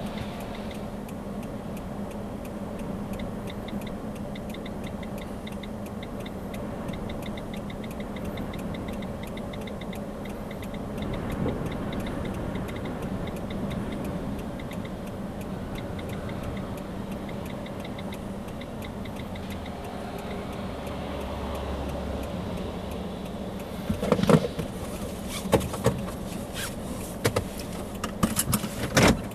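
A car's steady running hum, with a rapid regular ticking for several seconds early on, then a run of sharp clicks and knocks near the end.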